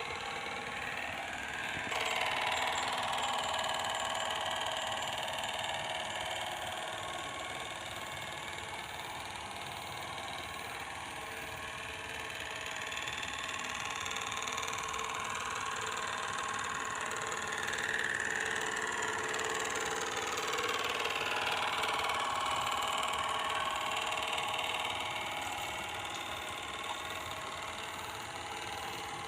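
A small motor running steadily, its whine made of several tones that slowly drift up and down in pitch; it gets louder about two seconds in.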